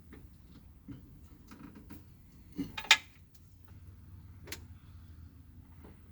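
Scattered metallic clinks and knocks of parts and tools, the loudest a sharp double clank about three seconds in and a lighter click a second and a half later, over a low steady hum.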